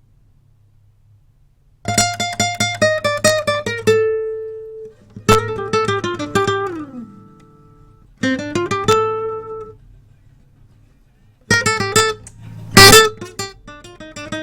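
Isolated guitar track from a multitrack recording playing back in short phrases of quick picked notes with pauses between, the track run through a compressor. A low hum sits under the pauses, and the loudest note is struck near the end.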